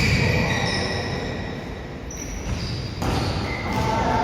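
Indoor futsal play: the ball being kicked and bouncing on the court, with a sharp thud at the start and another about three seconds in, and short high squeaks from shoes on the floor.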